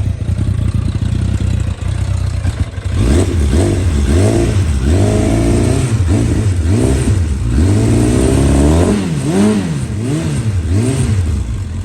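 2005 Suzuki Bandit 650's inline-four engine breathing through an aftermarket Beowulf exhaust can, idling steadily, then blipped about three seconds in with a string of quick throttle revs, each rising and dropping back, easing toward idle near the end.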